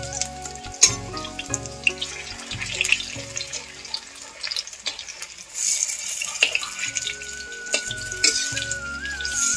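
Arum flower pakoras sizzling as they fry in oil in an iron kadai, with a metal spatula scraping and clicking against the pan as they are turned. The sizzle gets louder for a moment about six seconds in.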